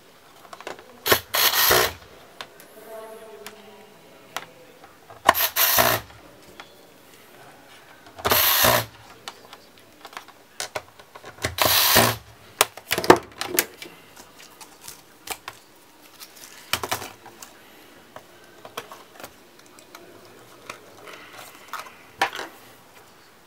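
Hands working on a laptop and its small parts and tools, making a string of sharp clicks and taps, with four short scraping or rustling bursts of about half a second to a second each, spread through the first half.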